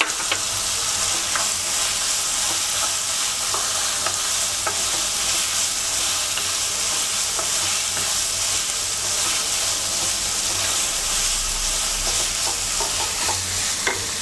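Chicken and mixed vegetables sizzling in hot oil in a non-stick wok, with a steady hiss, while a wooden spatula stirs them, making occasional light scrapes and taps against the pan.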